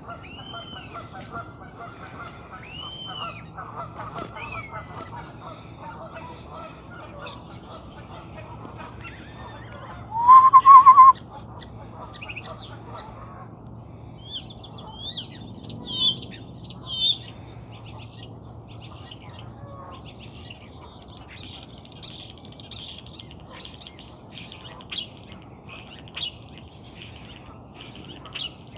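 Mixed birdsong: repeated arching whistled notes, then busier chirping and twittering in the second half, with one loud, brief call about ten seconds in.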